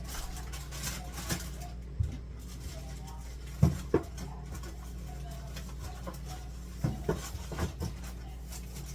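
Food items and containers being set onto mini-fridge shelves: a scattering of knocks and clunks, the loudest a little before the middle, over a steady low hum.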